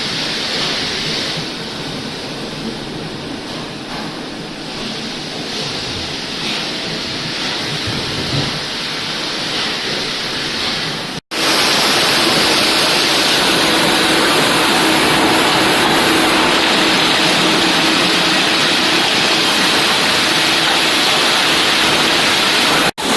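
Sawmill machinery running: a loud, even rushing noise. It breaks off abruptly about halfway through and comes back louder, now with a steady hum under it.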